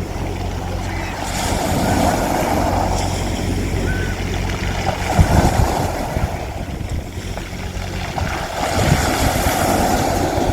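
Sea waves washing onto a beach, swelling about a second in and again near the end, over a steady low hum.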